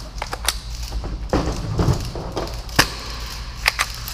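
Scattered clicks and knocks from handling an airsoft Hi-Capa pistol and its magazine between bursts of full-auto fire, the sounds of a magazine being swapped.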